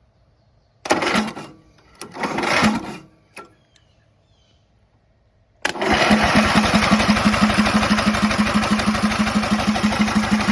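Old tractor's engine turned over by its starter without catching: two short bumps, then a crank of about five seconds with an even, rapid pulsing. The owner takes it for a bad ignition coil giving no spark.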